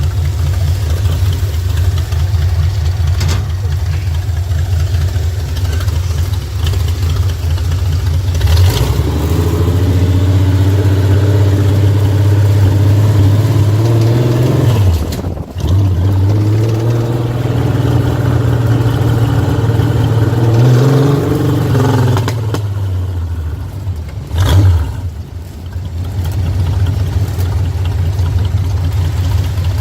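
Scorpion sand rail's 4.3-litre Vortec V6 idling, then held at raised revs for about six seconds. The revs drop briefly and are held up again for about five seconds, then a quick throttle blip, and the engine settles back to idle.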